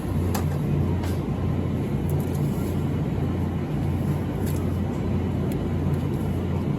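Steady low rumble of store background noise, with a few faint clicks.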